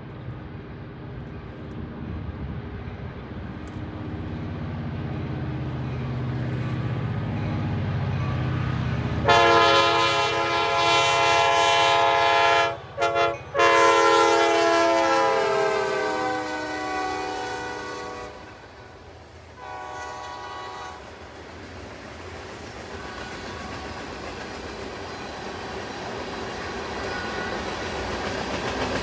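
Wisconsin & Southern diesel freight locomotives approaching, their engine rumble growing. About nine seconds in the air horn sounds a long blast, a short one, then another long one that falls in pitch as the locomotives pass, and a short final blast. After that, freight cars roll by with wheel clatter.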